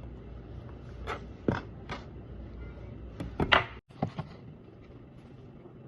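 A few scattered knocks and clicks of kitchen handling, the loudest about three and a half seconds in, over a low steady hum.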